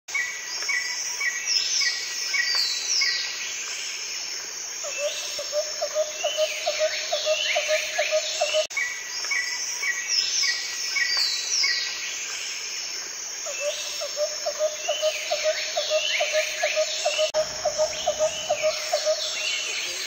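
Birdsong: several birds chirping, with short falling whistles and repeated high notes. A rapid, pulsing low trill runs for a few seconds at a time, twice: first from about a quarter of the way in, and again from about two-thirds of the way in until near the end.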